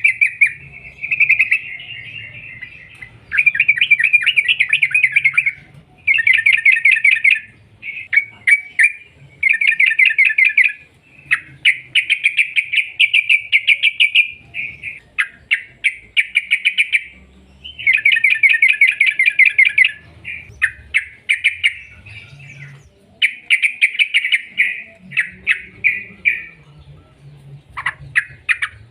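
Yellow-vented bulbul (trucukan) singing long rapid rolling trills, phrase after phrase of fast chattering notes with short pauses between.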